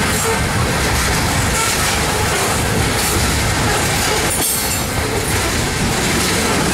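Freight train of refrigerated boxcars rolling past, its steel wheels running on the rails with a steady, even noise.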